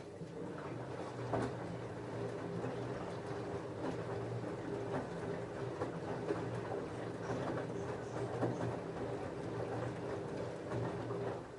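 LG F10A8HDS5 front-loading washing machine tumbling a load of jeans: the drum motor hums steadily while the wet denim knocks and sloshes inside, then the drum stops abruptly near the end.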